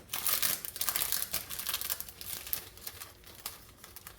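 Plastic packet of vellum die cuts crinkling and crackling as it is handled and opened, a dense run of irregular crackles that thins out toward the end.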